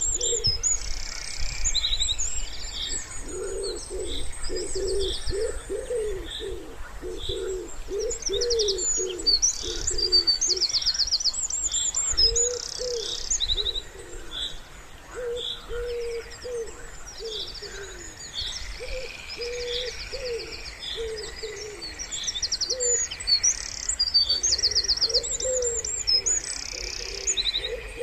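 Wood pigeon cooing in repeated phrases, over the high trills and short notes of small songbirds singing, with a faint low rumble underneath.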